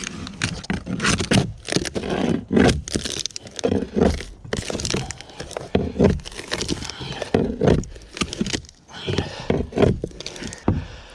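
Hand scraping: a run of irregular, rough scraping strokes, about two a second, from manual work on the boat being restored.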